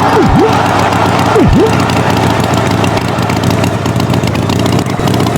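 A tractor engine sound runs steadily. Twice in the first two seconds a quick swoop drops down in pitch and comes straight back up.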